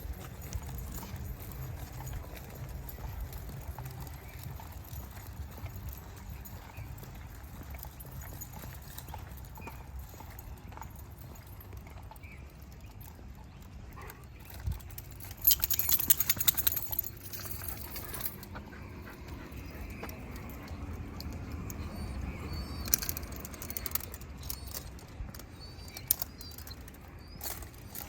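Walking footsteps on a trail over a steady low rumble of wind on the microphone. About halfway through comes a loud, brief metallic jingling, with a few sharp clicks near the end.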